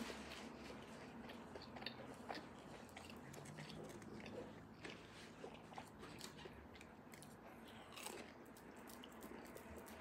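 A person biting and chewing an empanada, faint, with many small clicks of the mouth and food scattered through.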